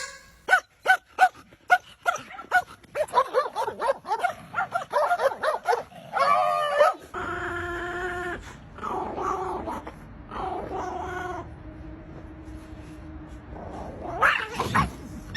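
Dogs barking and yipping in a run of short sharp calls, followed by longer whining and growling.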